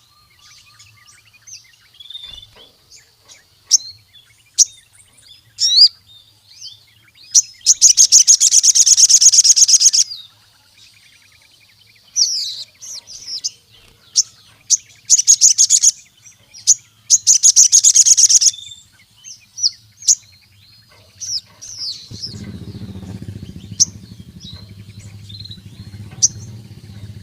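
Sogon (crimson sunbird) singing in full song: sharp, high chirps and short notes broken by three loud, rapid, buzzing trills of one to two seconds each, the first about eight seconds in. A low background hum comes in near the end.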